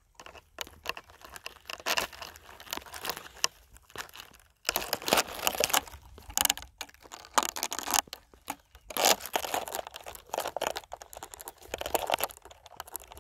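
Gorse bush rustling and crackling as its spiny branches are pushed aside by hand, in irregular bursts with a short pause about four seconds in.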